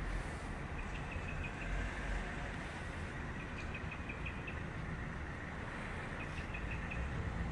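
Steady rain falling on leaves, a constant hiss over a low rumble. Three short runs of rapid high chirps come through it, about a second, three and a half seconds and six seconds in.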